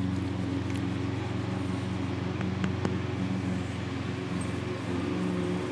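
A steady low mechanical hum, like a motor or engine running, with a couple of faint clicks about two and a half to three seconds in.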